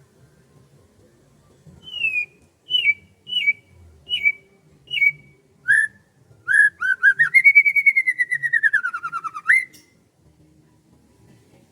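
A bird's whistled song: five short down-slurred notes at a steady pace, then one long wavering whistle that slides slowly downward and flicks sharply up at its end.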